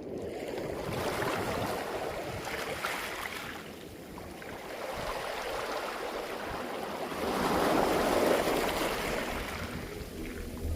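Sea waves washing up over a beach of smooth round pebbles and drawing back, the stones clattering. Two surges, the second louder.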